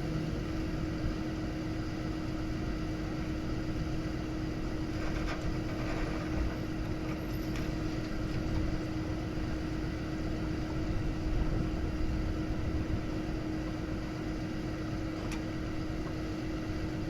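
Vehicle engine running steadily, a constant low hum over outdoor background noise.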